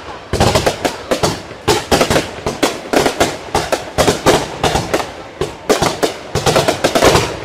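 Fireworks display: aerial shells launching and bursting in rapid succession, a steady barrage of sharp bangs several a second.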